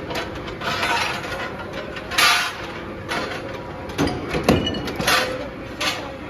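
Metalworking shop noise: scattered metal clinks and knocks over a steady machine hum, with a short hissing burst about two seconds in.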